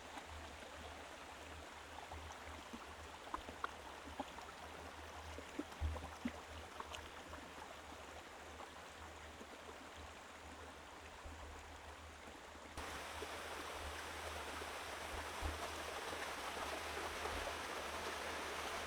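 Faint, steady rush of flowing water, with a few light clicks in the first half. The rush steps up abruptly and is louder from about thirteen seconds in.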